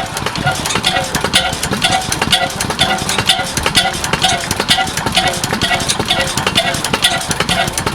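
3hp Richard Hornsby hot-bulb oil engine running steadily, with a regular metallic clanking beat about twice a second.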